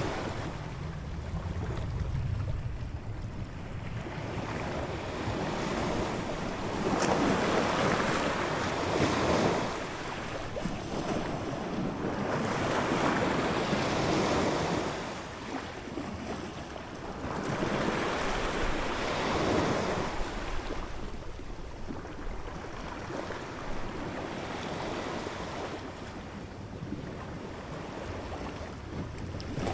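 Ocean waves breaking and washing ashore, the surf swelling and fading in slow surges every few seconds.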